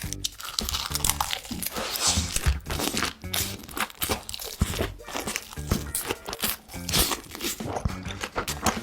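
Close-miked eating sounds, crunchy chewing and mouth clicks in quick succession, over background music with a pulsing bass line.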